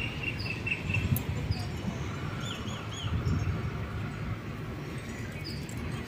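Small birds chirping in short high notes, a quick run of them in the first second and three more around the middle, over a low steady background noise outdoors.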